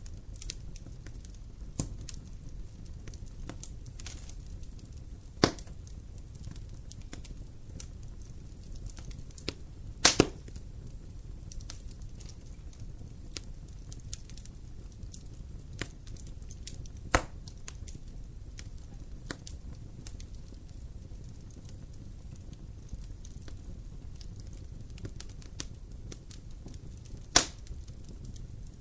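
Wood fire burning in a fireplace: a steady low rumble with constant faint crackling and four loud sharp pops from the burning logs.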